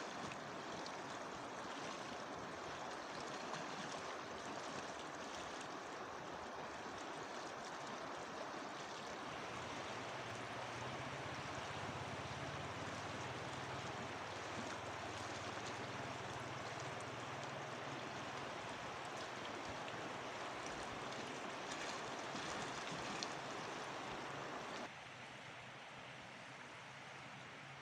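Flowing river water rushing steadily, an even wash of noise. A faint low hum runs underneath from about a third of the way in, and the water becomes suddenly quieter near the end.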